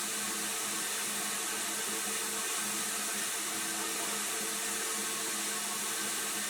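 Steady mechanical hiss over an even low motor hum, unchanging throughout.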